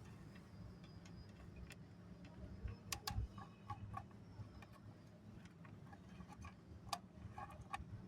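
Small dry pieces of mixed namkeen snack clicking and tapping as they are sorted: scattered light clicks, with a quick cluster of louder ones about three seconds in and another sharp click near seven seconds.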